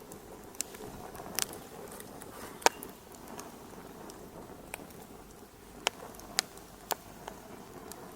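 Fire crackling in a fireplace: irregular sharp pops over a low steady hiss, the loudest pop about two and a half seconds in.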